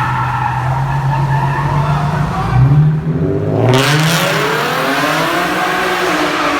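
Car engine running steadily, then about three seconds in the revs climb sharply. It keeps revving up and down under a loud tyre screech as the wheels spin, a burnout.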